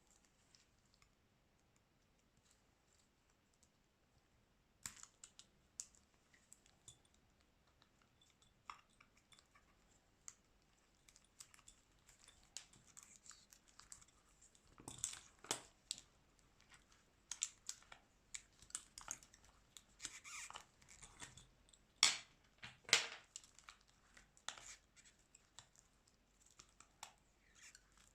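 Scattered small clicks, taps and scraping or tearing noises of tools and parts being handled while a Xiaomi Redmi 9A smartphone is taken apart for a screen replacement. It is sparse at first and grows busier from about halfway, with two sharper clicks about three-quarters of the way through.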